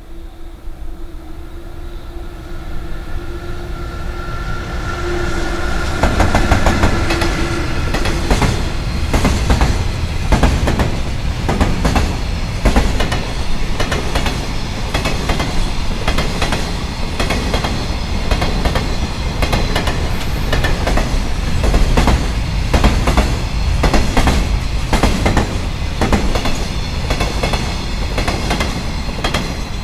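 An EF66 electric locomotive approaching with a steady hum that grows louder, then, from about six seconds in, a long train of Koki container flatcars passing close by, the wheels clattering rhythmically over the rail joints.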